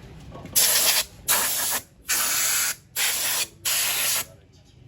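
Five short blasts of pressurised spray hissing, each about half a second to a second long with brief gaps between them.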